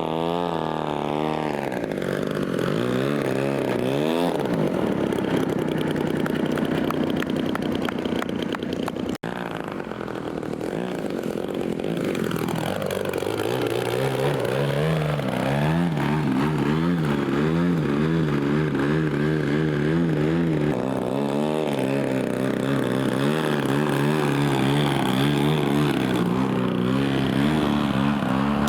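Small piston engine of a radio-control model aircraft running at high revs in flight, its buzzing pitch sliding up and down as it passes and changes throttle, with a marked fall in pitch about twelve seconds in.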